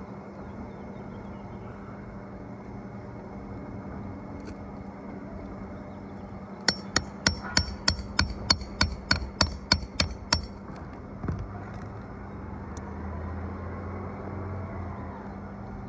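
Nails being driven into roof shingles: a quick run of about a dozen sharp strikes, roughly three or four a second, then a single strike after a short pause. A steady hum runs underneath.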